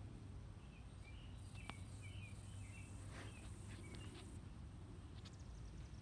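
Quiet outdoor background with a steady low rumble. A run of faint bird chirps comes in the first half, along with a sharp click and a few light ticks.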